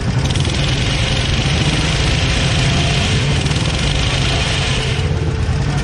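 Motorcycle engine idling steadily, with a higher hiss over it that starts just after the beginning and stops about five seconds in.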